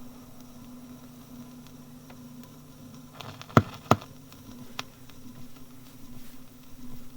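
Old railway sound-archive disc recording in a lull between trains: a steady low hum with light disc surface crackle. Two sharp clicks come about a third of a second apart near the middle, and a fainter one follows about a second later.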